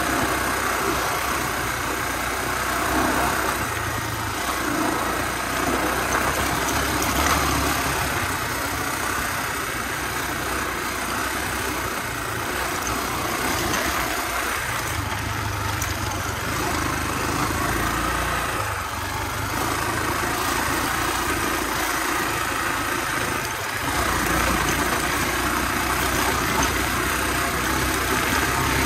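Honda XR250R's single-cylinder four-stroke engine running under way on a dirt trail, heard from the rider's position, its note rising and falling as the throttle is worked.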